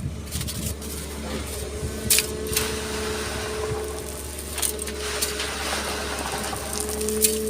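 Excavator's engine running steadily, with a steady hydraulic whine setting in about a second in, and a few sharp knocks and clatters, the loudest about two seconds in and near the end.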